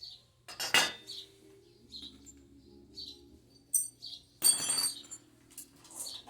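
Two loud metallic clanks, one about a second in and a longer ringing one near five seconds, as metal pieces knock together; a bird chirps briefly about once a second in the background.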